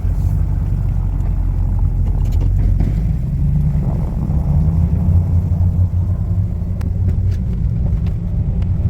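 A vehicle engine running steadily, a continuous low rumble, as plowing gets under way in the snow.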